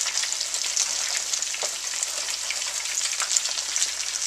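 Bacon-wrapped chicken pieces frying in a skillet of hot grease: a steady sizzle with many small crackling pops.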